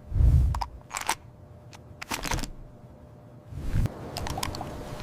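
A dull low thump, then a scatter of sharp clicks, and a second low rumble a little over three seconds in.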